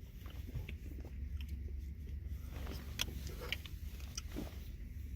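Someone eating a Dairy Queen Blizzard: a few scattered soft clicks and chewing over a low steady hum.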